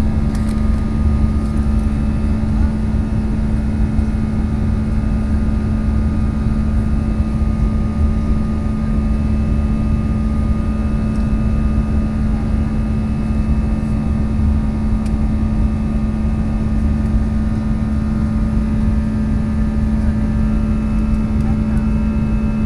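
Steady engine drone and airflow rumble inside a jet airliner's passenger cabin in flight, a deep rumble with a constant hum on top.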